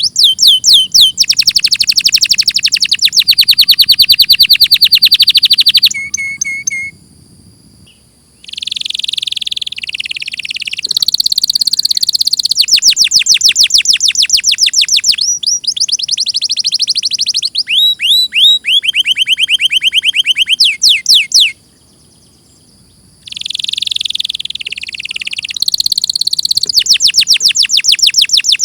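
Domestic canary singing: long phrases of fast, rapid-fire trills and sweeping high notes, broken by two short pauses.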